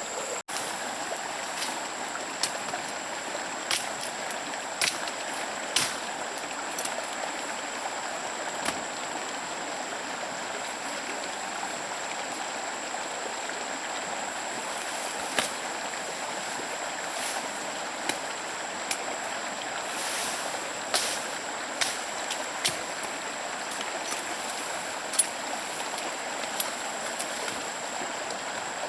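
Stream water running steadily, with scattered sharp clicks and knocks over it and a thin, steady high tone throughout.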